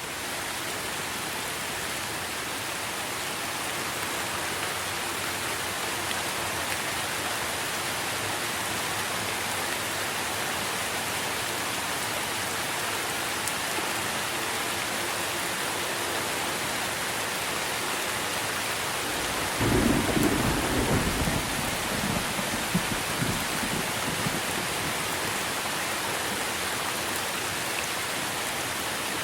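Steady heavy rain falling on trees in a thunderstorm, with a rumble of thunder about two-thirds of the way through that fades over a few seconds.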